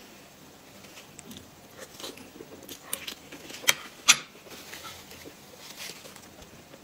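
Close-miked eating sounds: soft wet chewing of whipped cream cake with scattered small mouth clicks. Just past the middle come two sharp clicks close together, as the metal spoon is set down on the plate.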